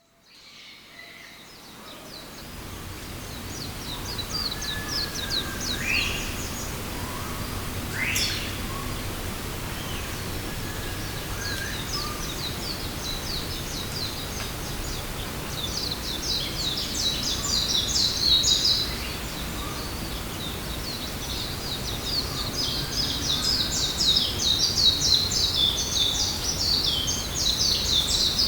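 Forest ambience fading in: a steady low rumble and hiss, with birds chirping in rapid, scratchy trills that grow denser and louder in the second half. There are two short rising calls about six and eight seconds in.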